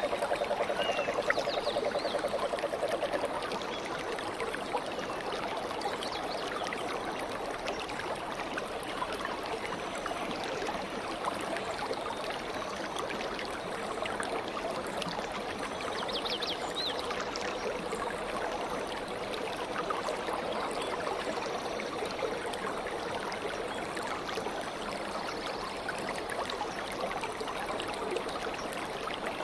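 Stream water flowing steadily, a little louder for the first few seconds, with a couple of brief, faint bird chirps over it.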